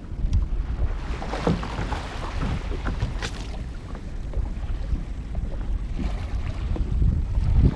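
Wind rumbling on the microphone while water splashes and knocks lightly against a kayak on the water, in scattered bursts.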